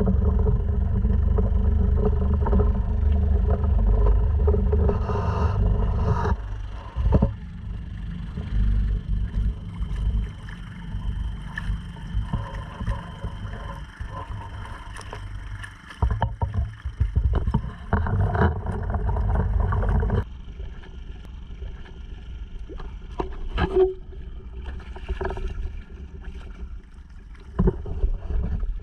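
Small four-stroke Honda 2.3 outboard on a sea kayak running steadily. Heavy low rumble of wind and water on the camera microphone comes and goes, strongest for the first six seconds and again from about 16 to 20 seconds in, with scattered splashes and knocks.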